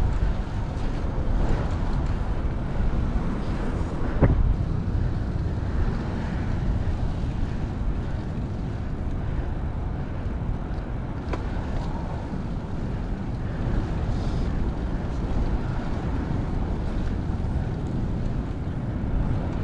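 Wind buffeting the action camera's microphone while riding a bicycle, a steady low rumbling rush. Two short sharp clicks come through, one about four seconds in and one past the middle.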